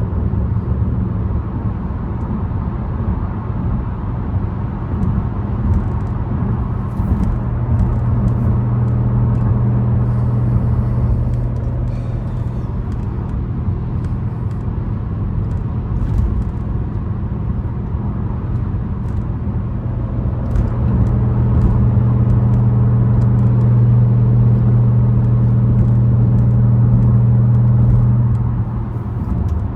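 Exhaust of a BMW 550i's twin-turbo V8 with catless downpipes, an H-pipe and the muffler deleted, droning steadily while the car is driven. The drone grows louder for a few seconds about seven seconds in, and again for a longer stretch past twenty seconds, holding a near-steady pitch.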